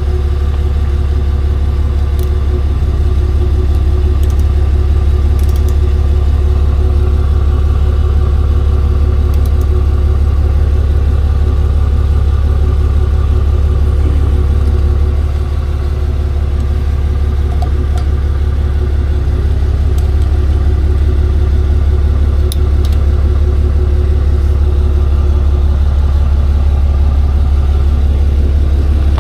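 Tow truck's engine idling with a steady deep drone, a few faint clicks over it.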